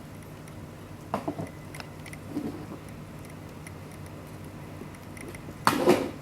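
Chihuahua puppies about four weeks old scuffling and giving small squeaks in three short bursts, the loudest near the end, over a faint steady ticking.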